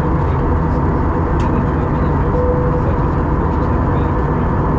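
Steady cabin noise of an Airbus A321 under way: an even, deep rush of engines and airflow, with a faint hum that comes and goes and one brief click about a second and a half in.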